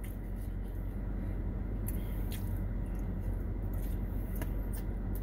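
Quiet chewing with a few faint clicks of chopsticks on a foam takeout container, over a steady low hum inside a car.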